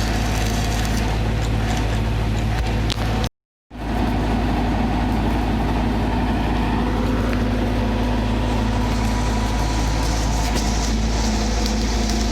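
Heavy machine engine running steadily under load, with a brief gap of silence a little over three seconds in.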